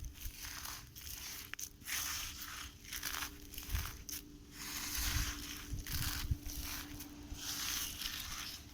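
Sand being crushed: a series of crumbling, crunching noises in irregular bursts about once a second.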